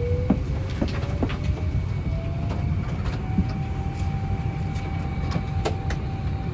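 Airbus A350-1000 cabin after arrival: a steady low rumble with a faint whine slowly rising in pitch, and scattered clicks and knocks.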